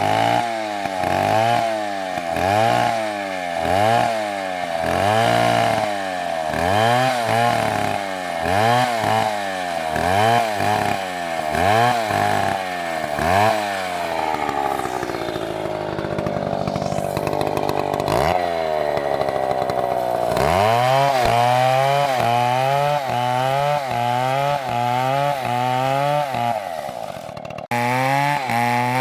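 Large MS720 chainsaw cutting into a big tree trunk, its engine speed rising and falling in a regular pulse about every three-quarters of a second as the bar bites into the wood. Midway it holds at steady high revs for several seconds, then the rhythmic pulsing returns, with a brief dropout near the end.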